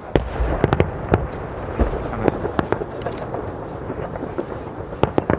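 Fireworks bursting overhead: a dozen or so sharp bangs and cracks at irregular intervals, over a low rumble that carries on between them.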